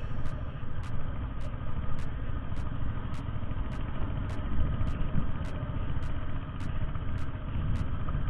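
Motorcycle engine running steadily at low speed, heard through an action camera mounted on the bike or rider.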